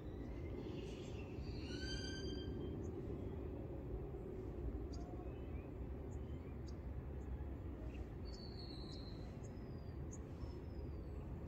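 Wild birds calling: a short call about two seconds in, a thin falling whistle about eight seconds in, and scattered brief chirps, over a steady low background rumble.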